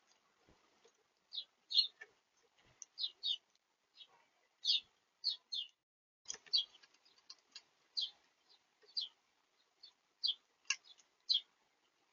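Small birds chirping at a feeder: many short, high chirps coming irregularly in quick succession, with a few faint taps.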